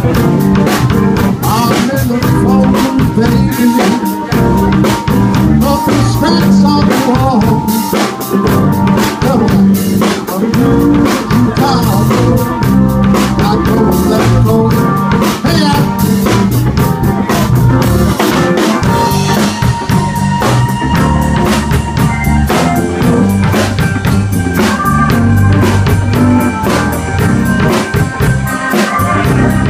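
Blues band playing live: a drum kit keeps a steady beat under guitar.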